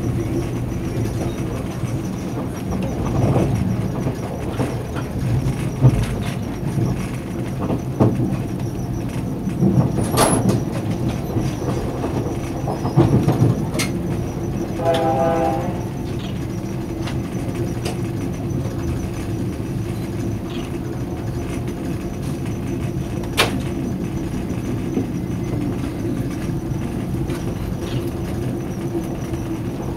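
Steady low rumble of a passenger rail car in motion, heard from inside, with scattered knocks and clicks. A brief pitched note sounds about halfway through.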